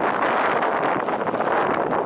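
Steady, loud rushing noise of a jet airliner's engines, with wind buffeting the microphone.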